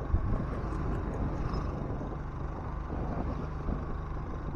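Vehicle on the move through city streets: a steady low engine and road rumble with wind buffeting the microphone.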